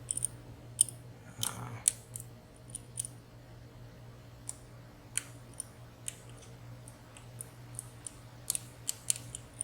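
Sparse, irregular small clicks and ticks of lock picks working the sliders inside a WSW W10 slider padlock, over a faint steady hum.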